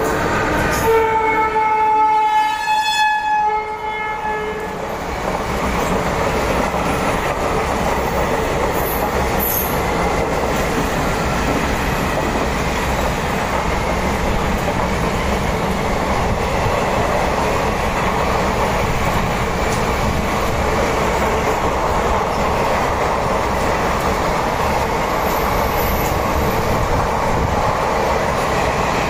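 An Indian Railways electric locomotive sounds its horn as it passes, the horn stopping about four seconds in. Then the long train of chair-car coaches rolls by at speed with a steady rumble and wheel clatter.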